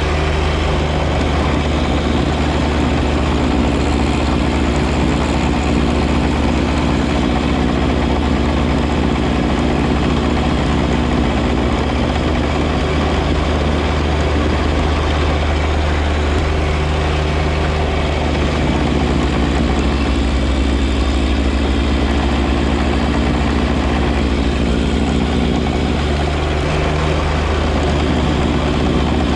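John Deere 1025R compact tractor's three-cylinder diesel engine running steadily, with a deep, even drone.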